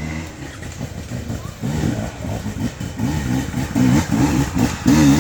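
Dirt bike engine revving in quick repeated blips, its pitch rising and falling, getting louder about two seconds in.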